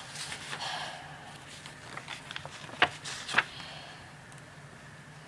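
Sheets of paper being handled and folded: soft rustling in the first second, then two sharp crisp snaps a little over half a second apart near the middle.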